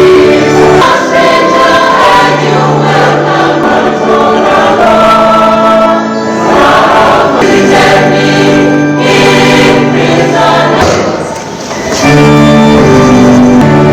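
A choir singing gospel music, with a short drop in loudness about eleven seconds in.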